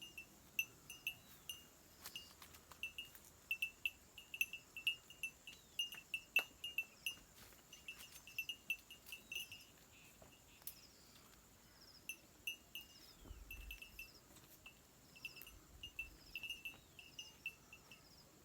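Faint outdoor ambience of short, high chirps repeating irregularly, several a second, from small calling animals, over a steady thin high tone.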